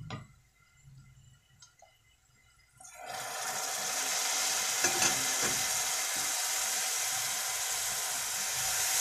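Onion-and-spice masala frying in hot oil breaks into loud sizzling as water hits it about three seconds in, then keeps up a steady sizzle while it is stirred with a spatula. The water is added to keep the spices from burning.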